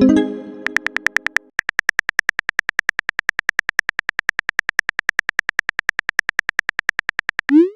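Texting-app sound effects: a notification chime at the start, then a long run of fast, evenly spaced typing clicks, about a dozen a second, ending in a short rising swoop as a message is sent.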